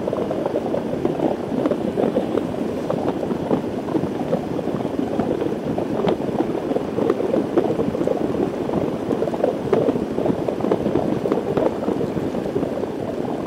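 Steady wind and road rush on a motorcycle helmet's camera microphone while riding at speed in wet weather, with faint scattered ticks.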